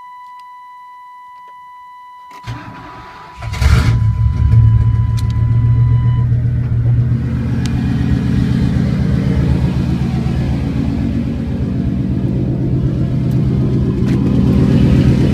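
Straight-piped Chevy engine cranked by the starter for about a second, catching about three and a half seconds in, then running loud at a steady idle through the open pipes. A steady high electronic warning tone sounds during the cranking and stops a couple of seconds after the engine starts.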